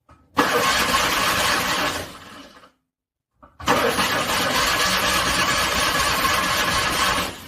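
A cold car engine cranking on its starter and struggling to start, in two attempts: a short burst of about one and a half seconds, then a longer one of about four seconds. Each ends abruptly and falls away.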